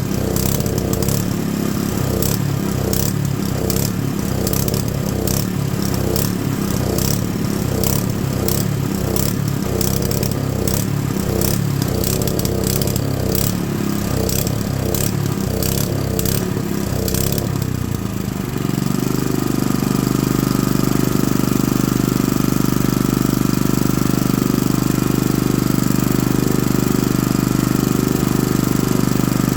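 Honda GX110 single-cylinder four-stroke engine running, with a regular clatter about twice a second. About 18 seconds in, the clatter stops and the engine settles into a steady, even run.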